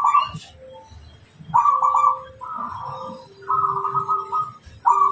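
Zebra dove (perkutut) cooing in a run of short, trilled phrases, about four of them, each lasting under a second with brief pauses between.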